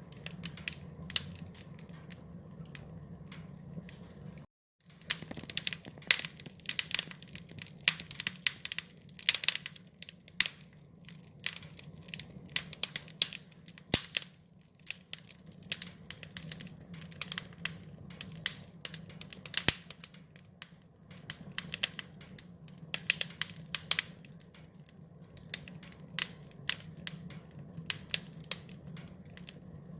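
Wood fire crackling, with many irregular sharp pops and snaps over a steady low hum. The sound cuts out completely for about half a second, about four and a half seconds in.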